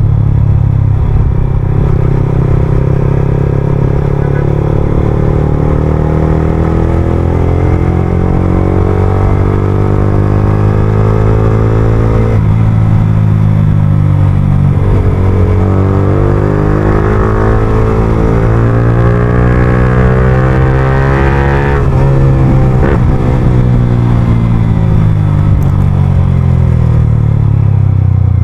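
Yamaha R15M's 155 cc single-cylinder engine through an Akrapovic full-system exhaust, heard from the saddle while accelerating. The engine note climbs, drops sharply at a gear change about twelve seconds in, and climbs again. After about twenty-two seconds it falls away as the bike slows.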